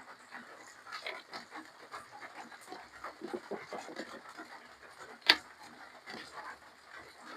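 Close-up eating sounds of a person chewing spicy seafood papaya salad with rice noodles: wet, irregular chewing and slurping with quick breaths. A single sharp click about five seconds in is the loudest sound.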